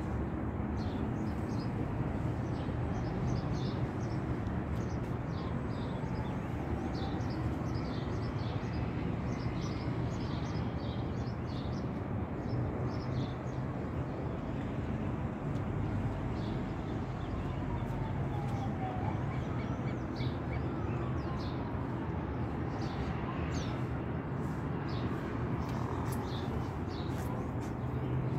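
Small birds chirping in quick, repeated short calls, over a steady low background rumble.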